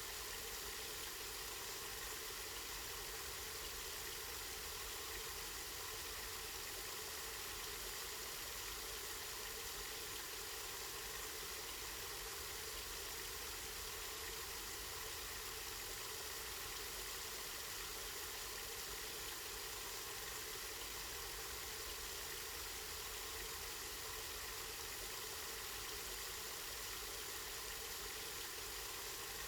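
Water running steadily from a spring, an even unbroken rush of flowing water.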